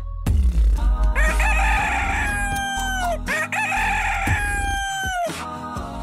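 Rooster crowing twice, each crow a long call that holds steady and then falls in pitch at the end.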